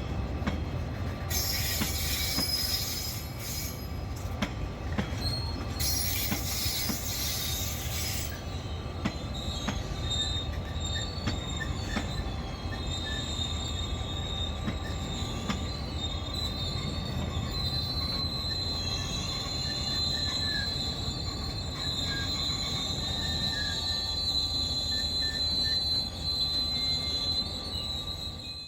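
KiwiRail train rolling along with a steady low rumble, its wheels giving a thin, high, sustained squeal from about nine seconds in. Two bursts of hissing noise come in the first eight seconds.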